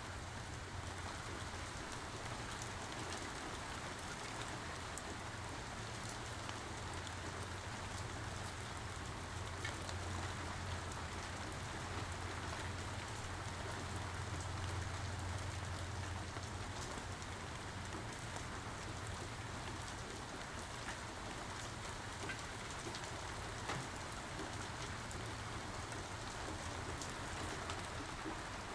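Steady rain falling, with scattered individual drops ticking through it. A low rumble runs underneath and swells slightly about halfway through.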